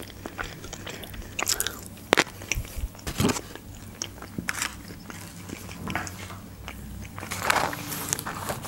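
Close-miked chewing of a fried potato wedge, with soft crunches and wet mouth clicks scattered throughout.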